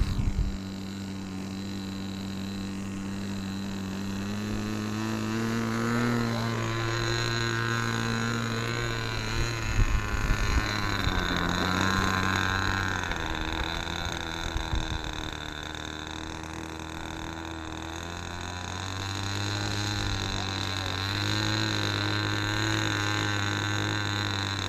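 Propeller motor of a flying RC lawnmower model droning steadily, with a thin high whine above it. Its pitch rises and falls gently with the throttle. There are a few short bumps around ten seconds in and again near fifteen.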